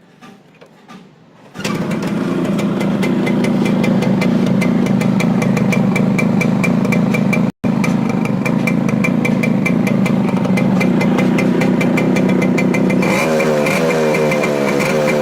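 Yamaha RX two-stroke single-cylinder motorcycle engine, just fitted with a new block and piston, running through its cleaned and modified silencer: it comes in suddenly about a second and a half in and runs steadily with a fast exhaust beat, with a momentary break midway. Near the end it is revved, the pitch rising and falling.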